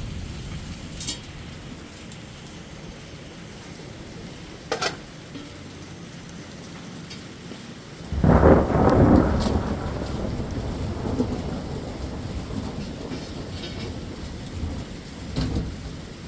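Steady rain with a clap of thunder about halfway through, rumbling loud and then fading away over several seconds. A few sharp taps are heard close by.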